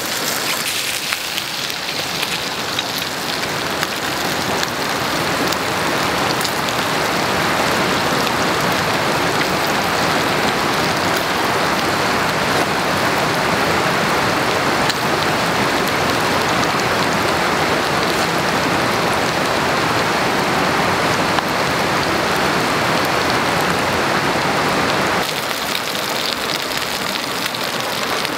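Steady rain falling, an even hiss that eases a little near the end.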